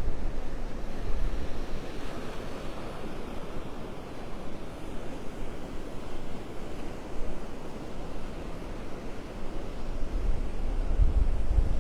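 Surf washing onto the beach, a steady rush of waves. Wind buffets the microphone at the start and again near the end.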